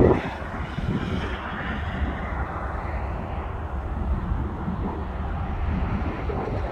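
Distant, steady rumble of an approaching freight train hauled by South African Railways Class 18E electric locomotives.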